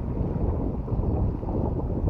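Strong wind buffeting the microphone: a steady low rumble that swells and dips unevenly.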